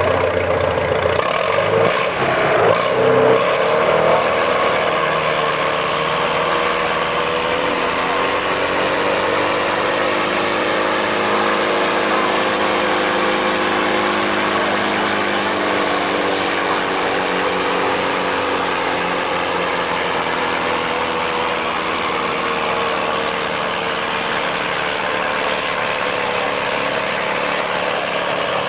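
Vintage farm tractor engine running hard under full load while pulling a weight-transfer sled. Its pitch sags slowly as the load builds, then climbs back.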